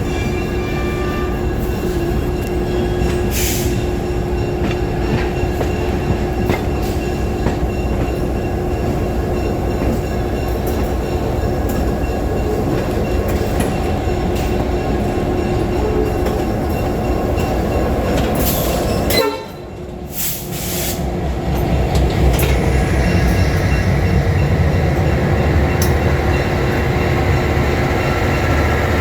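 Train running on the rails: a steady rumble with scattered clicks. About two-thirds of the way through the sound drops away for about a second, then comes back heavier and deeper.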